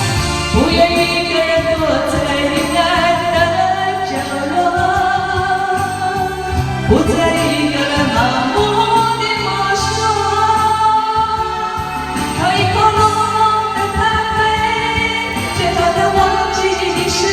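Music: a Mandarin pop ballad, sung over a backing track, with the voice gliding between held notes.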